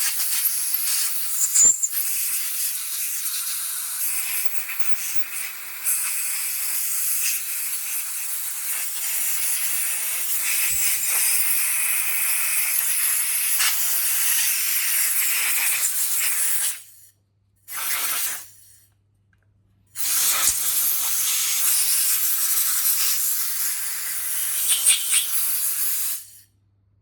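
Compressed air hissing as it is blown through the passages and jet holes of a Yamaha YZF1000 Thunderace carburettor to clear them. The hiss runs steadily for about 17 seconds and stops. A short blast follows, then after a brief pause a longer one of about six seconds, which cuts off sharply.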